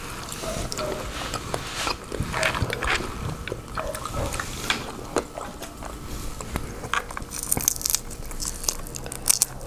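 Close-miked eating of a seafood boil: biting and chewing, with irregular crunches and small wet clicks.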